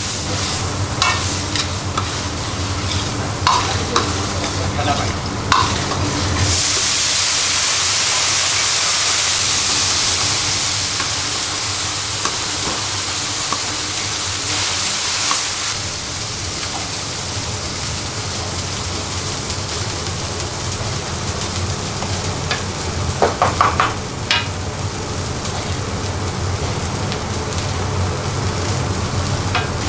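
Chopped tomatoes and onions sizzling in oil in a large aluminium kadai while a metal ladle stirs and scrapes through them, with sharp clicks of the ladle on the pan. The sizzle swells to a louder hiss for several seconds in the middle, and a quick run of ladle knocks comes about three-quarters of the way in, as the tomatoes cook down into a gravy base.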